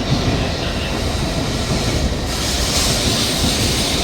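Shinkansen Nozomi train running on its rails: a steady low rumble, with a higher hiss joining about two seconds in.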